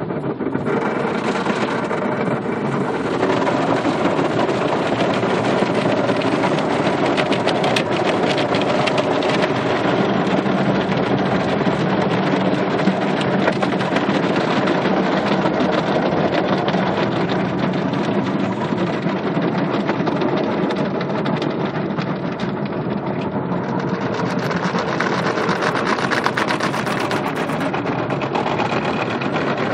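Automatic car wash equipment running: a steady wash of spraying water and machine noise that grows hissier near the end.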